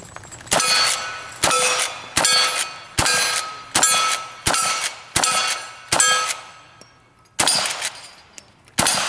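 A string of about ten gunshots at a steady pace, each followed by the ring of a steel target being hit, with a short pause before the last two shots.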